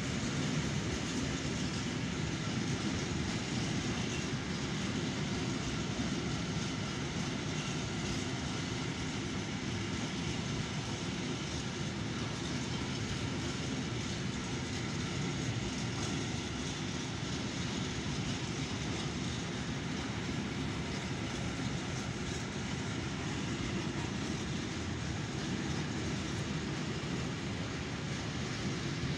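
Freight train of rail tank wagons rolling past, the wheels running steadily on the rails.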